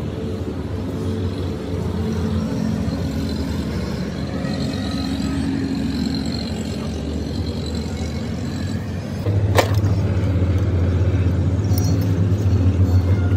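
An engine running steadily with a low hum. About nine seconds in it grows louder, and a single sharp knock sounds.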